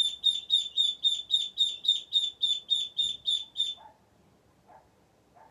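A baby chick or duckling peeping loudly and repeatedly, about four high, slightly falling peeps a second, which stops about four seconds in. A few faint soft sounds follow.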